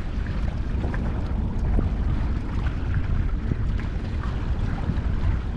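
Wind buffeting the microphone outdoors: a steady low rumble with no clear pitch.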